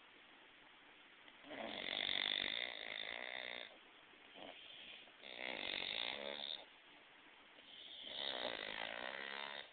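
English bulldogs snoring in their sleep: three long snores, one about every three seconds.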